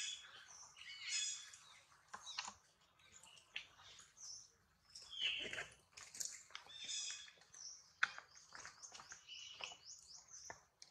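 Small birds chirping, with quick runs of high chirps, and soft wet clicks from a macaque biting and chewing soft fruit.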